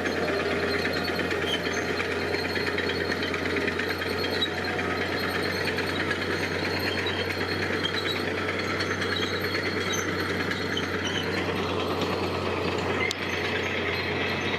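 Diesel engine of heavy construction machinery running steadily, with a fast, even clatter over a constant low hum.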